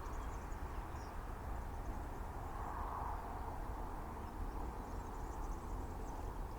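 Quiet outdoor ambience: a faint, steady low rumble and hiss with no distinct event.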